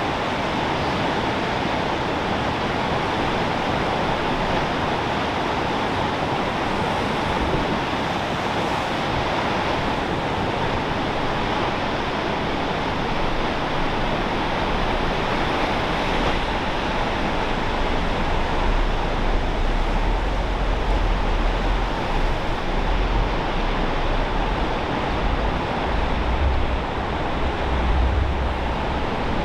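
Steady rush of ocean surf, with low wind buffeting on the microphone growing stronger in the second half.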